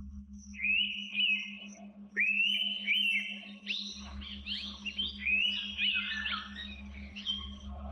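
Several birds calling at once, a dense run of overlapping clear whistled notes that rise and fall, with a faint high chirp repeating steadily behind them. A steady low hum lies underneath.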